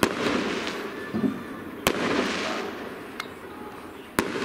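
Aerial firework shells bursting: three sharp bangs about two seconds apart, each followed by a fading hiss.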